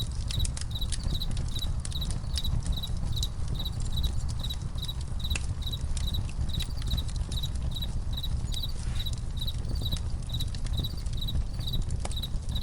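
Crickets chirping in a steady, even rhythm of about three chirps a second, over a campfire crackling with scattered sharp pops, and a steady low rumble underneath.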